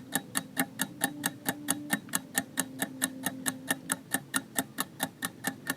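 Clock-tick countdown sound effect: rapid, even ticks at about six a second while a quiz answer is awaited, over a faint steady low hum.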